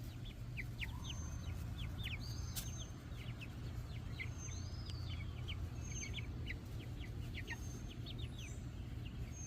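Young Black Copper Marans chicks peeping: many short, falling cheeps, overlapping, over a steady low hum.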